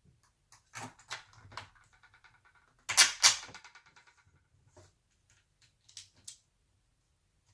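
Handling noises from parts being worked on a bench: a few light clicks and knocks, two loud clacks about three seconds in, and two more clicks near the end.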